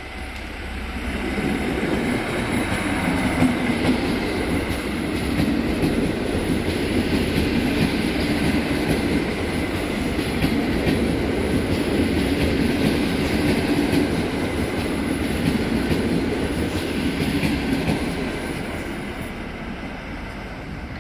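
BOB diesel multiple unit running past along the track, its wheels on the rails and its running noise swelling about a second in, holding steady, then fading near the end.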